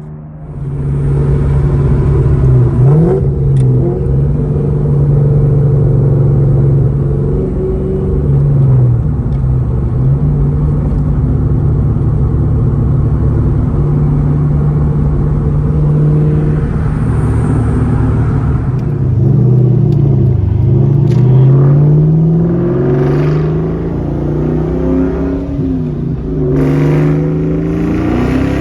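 2004 SVT Cobra's Whipple-supercharged 4.6-litre V8 running through a Borla exhaust, loud and mostly at steady revs. The pitch dips several times and climbs in rising pulls, most noticeably in the second half.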